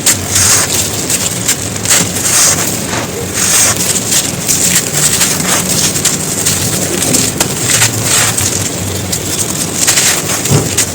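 Dry, crumbly material being crumbled and crushed: a dense, continuous crunching and crackling with frequent sharper crunches.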